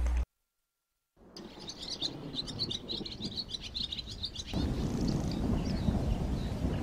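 A large flock of birds calling, many short chirping calls overlapping into a continuous chatter. It starts about a second in after a moment of silence, and from about halfway through a louder low noise comes in underneath.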